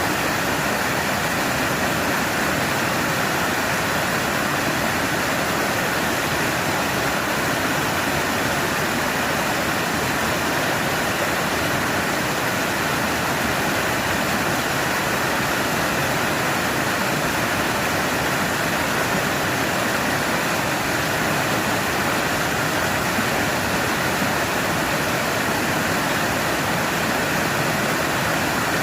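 Waterfall: a steady rush of falling water cascading over rocks.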